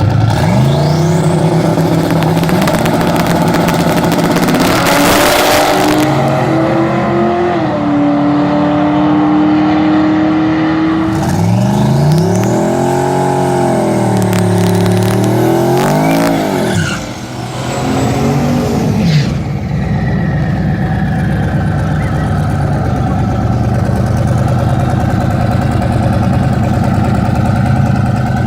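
Twin-turbo LS V8 drag car revving: the engine climbs, holds a steady pitch for a few seconds, then is blipped up and down several times before dropping back to a rough idle with a thin steady whine over it. A burst of harsh hissing noise comes in over the engine about five seconds in.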